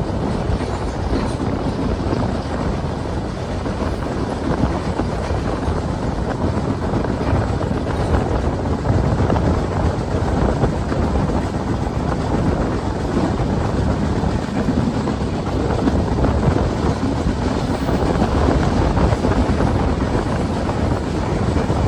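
Steady rumbling rush of a moving train, an even roar with no clear beat.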